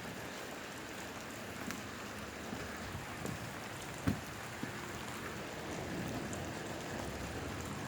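Steady rain falling, with scattered drops tapping sharply on a nearby surface and one louder drop about four seconds in.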